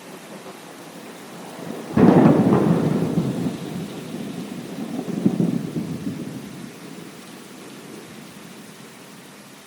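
Steady rain with a thunderclap that breaks suddenly about two seconds in and rumbles on, swelling again a little after five seconds before dying away into the rain.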